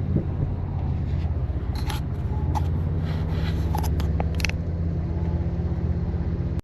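BMW F80 M3 Competition's twin-turbo inline-six, with catless downpipes and an always-open valved exhaust, cruising at steady low revs with a deep drone. A few short clicks and knocks come between about two and four and a half seconds in.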